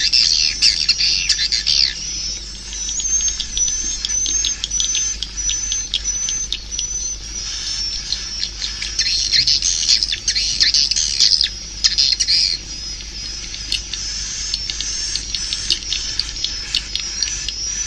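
Swiftlet lure sound: dense, high twittering chatter and clicks of edible-nest swiftlets, with a thin high note repeating steadily through it from a few seconds in.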